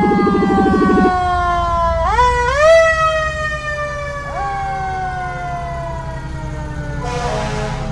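Fire engine siren winding down in a long falling wail, pushed back up in pitch twice, about two seconds and four seconds in, before sinking again. A rapid low throbbing stops about a second in, and a short burst of hiss comes near the end.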